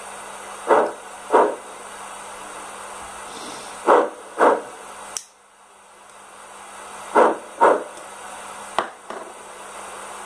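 Sound decoder of a Rivarossi H0 Big Boy model locomotive playing steam-engine sounds through its small speaker: a steady hiss with pairs of short puffs about every three seconds. About halfway through there is a click and the hiss briefly drops away before it builds up again; there is another click near the end.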